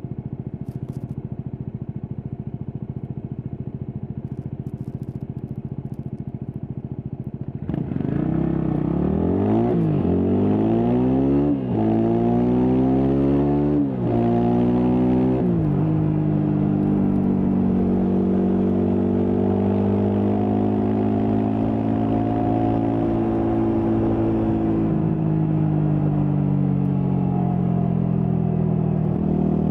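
Stock Yamaha WR250X's 250 cc single-cylinder four-stroke engine running steadily at low revs, then about eight seconds in it gets louder and revs up as the bike pulls away, shifting up three times about two seconds apart. It then runs at a steady cruising speed.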